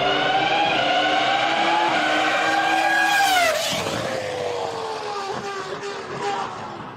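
Ferrari Formula 1 engine at high revs, approaching with its pitch rising slightly, then passing by about three and a half seconds in with a sharp drop in pitch, and fading as it goes away.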